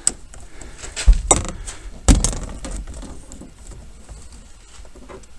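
Clicks, rattles and knocks of hands and a Torx driver working loose the multifunction switch on a pickup's steering column, with two heavier dull thumps about one and two seconds in.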